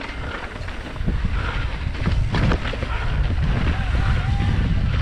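Wind buffeting the microphone of a camera riding along on a mountain bike, with scattered rattling clicks and knocks from the bike on rough trail.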